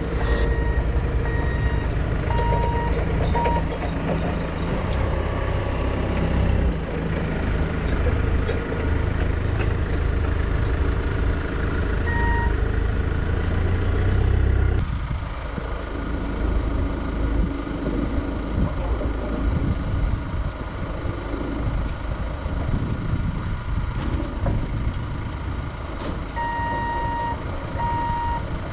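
Vehicle reversing alarm beeping in short runs, over the low rumble of a running engine that cuts off suddenly about halfway through; the beeping returns near the end.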